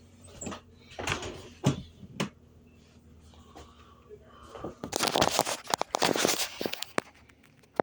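A few separate knocks, then about two seconds of dense rustling and crackling, as of things being handled.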